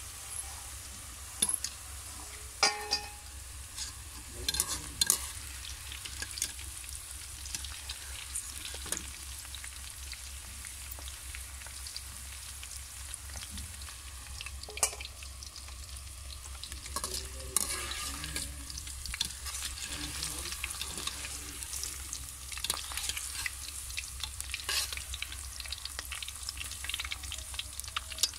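Okra frying in hot oil in an aluminium karahi, sizzling steadily. Scattered sharp clinks and scrapes of metal against the pan come as a wire strainer scoops the pieces out.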